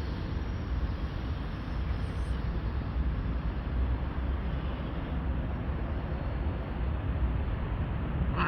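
Steady outdoor background noise, a low rumble with an even hiss over it; right at the end a cat starts to meow.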